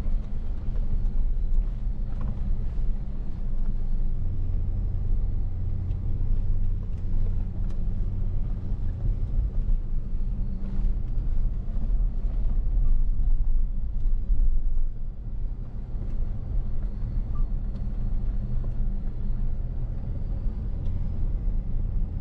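A motor vehicle driving with a steady low engine rumble.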